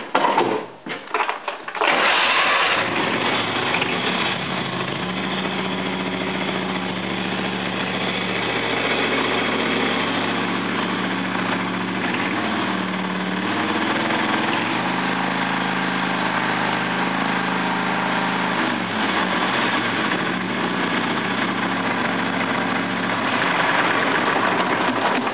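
Ride-on lawn tractor engine starting: a short ragged start in the first two seconds, then running steadily, its speed dropping and rising again a few times.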